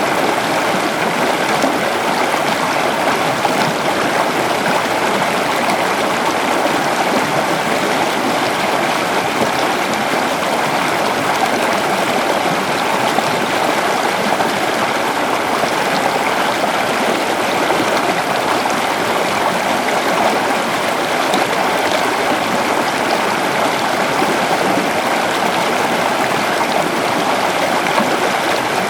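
A shallow river flowing steadily over stones, a continuous even rushing and burbling of water.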